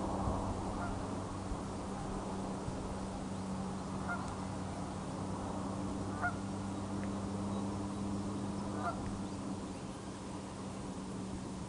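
A few faint, short bird calls, one roughly every two to three seconds, over a steady low hum and background hiss.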